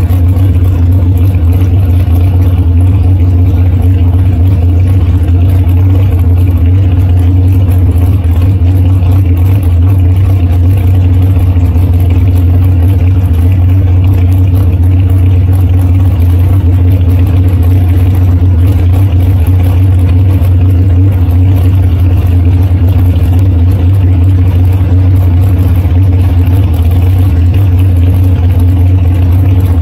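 Dragster engine idling steadily and loud, heard up close from on board the car.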